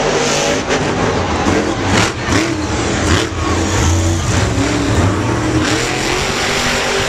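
Monster truck engine revving loudly, its pitch rising and falling again and again.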